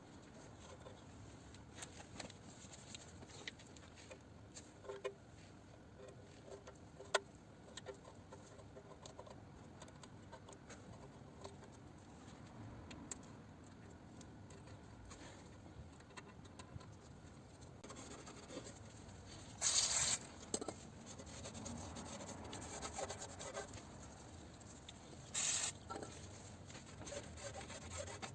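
Old silicone sealant being scraped and rubbed off an engine oil sump's mating flange: faint scraping and small clicks, broken twice in the second half by a short loud hiss.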